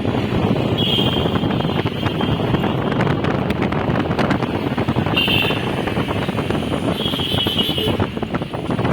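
Car on the move, with a steady rumble of road and wind noise. Short high-pitched tones come through three times: about a second in, a little after five seconds, and around seven seconds.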